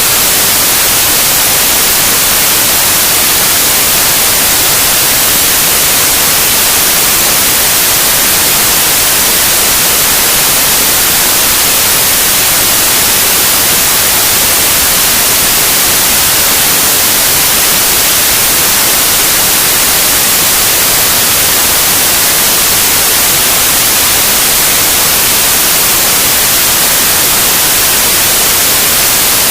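Loud, steady white noise: an even, unchanging hiss, brightest in the high frequencies.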